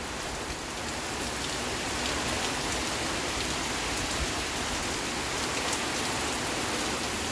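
Heavy rain pouring down, a steady hiss with scattered individual drops ticking through it.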